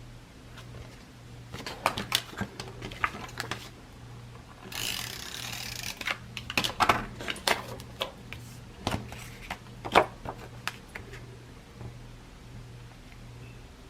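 Paper-crafting materials being handled on a table: runs of light clicks and taps, with a short rasping noise like tape being pulled or paper being rubbed about five seconds in.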